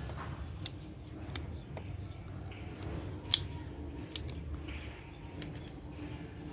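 A few sharp clicks and taps of engine parts and hand tools being handled during an engine teardown, the loudest about halfway through, over a faint low hum.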